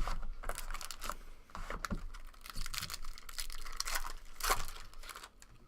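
A sealed trading card pack being torn open by hand, its wrapper crinkling and rustling in irregular bursts.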